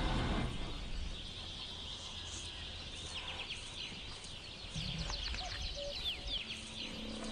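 Small birds chirping: quick, high chirps that come thick and fast in the second half, over a low steady background rumble.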